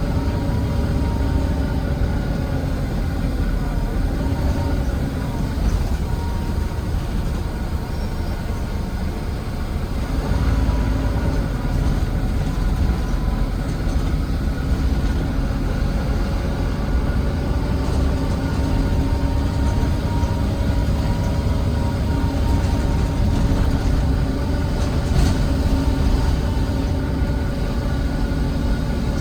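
Volvo D9B diesel engine and drivetrain of a Volvo B9TL double-decker bus running under way, heard from the back seat close to the engine: a steady low rumble with several whining tones that slowly rise and fall as the bus speeds up and slows.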